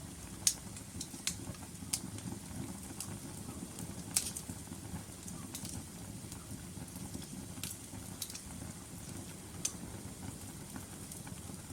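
Wood logs burning in a fireplace: a steady low rumble of flames with irregular sharp crackles and pops, the loudest about half a second in and about four seconds in.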